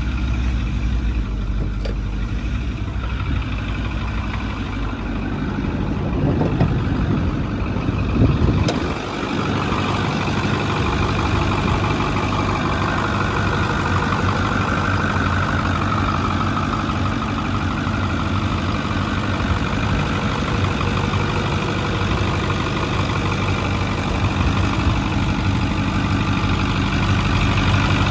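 Ford 6.4-litre Power Stroke V8 turbodiesel idling steadily. About nine seconds in, it becomes louder and brighter, as if heard from closer up.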